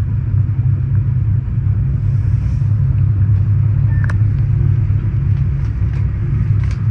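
Steady low rumble of a moving passenger train heard from inside a sleeping car, its wheels running on the rails, with one brief click about four seconds in.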